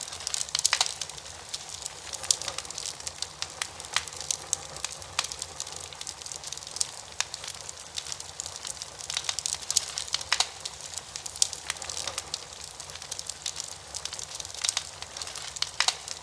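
Wood campfire burning steadily, its logs crackling with frequent sharp pops over a soft hiss of flame.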